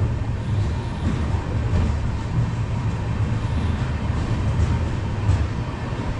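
Passenger express train rolling slowly into a station: a steady low rumble of the running coach.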